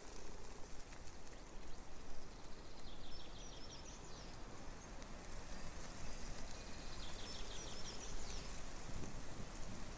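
Steady outdoor background noise with a bird trilling twice, short rapid high trills about three seconds in and again about seven seconds in.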